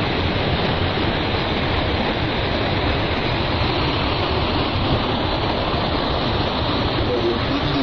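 Torrent of water and sludge rushing down a slope: a steady, loud rushing roar of floodwater.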